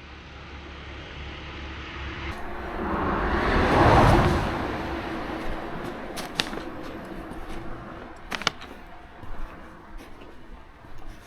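A vehicle passing by, swelling to its loudest about four seconds in and then fading, followed by a few sharp clicks.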